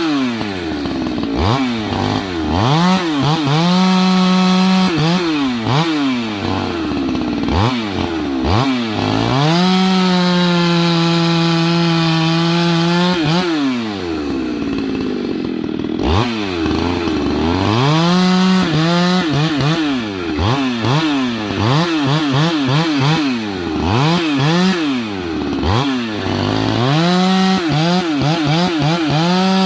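Husqvarna 390XP chainsaw running a 394/395 carburetor and an 8-pin sprocket, cutting wood. It revs up and holds at full throttle for a second or more, then drops sharply and revs back up, again and again.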